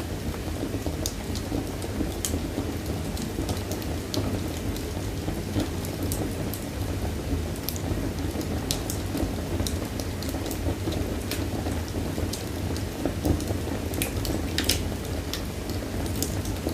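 Wood fire burning in a fireplace: a steady low roar of the flames with irregular sharp crackles and pops from the burning wood, a few louder pops in the last few seconds.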